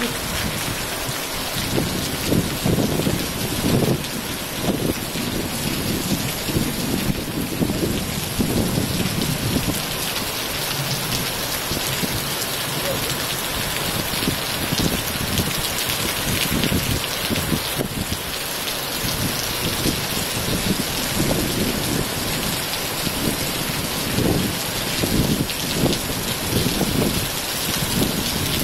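Steady rain falling, a continuous hiss, with irregular low rumbles swelling and fading throughout.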